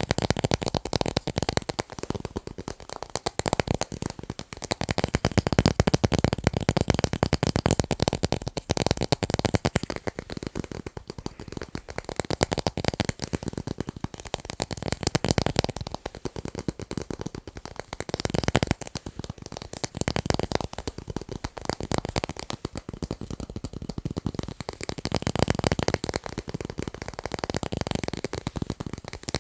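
Very fast fingertip tapping on tape, a dense stream of quick taps that swells louder and softer every few seconds.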